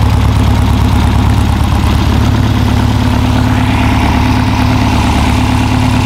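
Newly built air-cooled VW flat-four engine of a Baja Bug, fed by 36 mm Dellorto carburettors, running steadily at idle.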